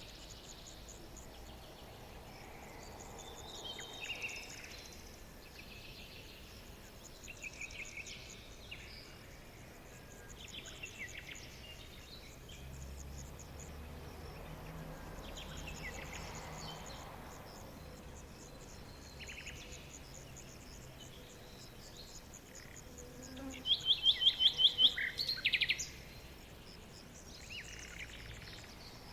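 Several songbirds chirping and trilling over a faint steady background hum, with one loud, fast run of repeated high notes about three-quarters of the way through.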